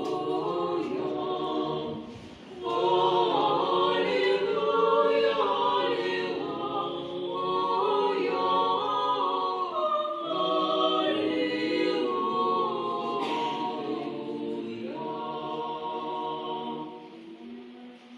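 Several voices singing together in held, overlapping notes, like a small choir. There is a short break about two seconds in, and the singing fades toward the end.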